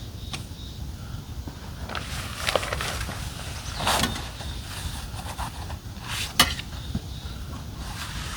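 Handling noises from packing up a roof top tent: scattered knocks and rustles, with the loudest a single sharp click about six seconds in, over a steady low rumble of wind on the microphone.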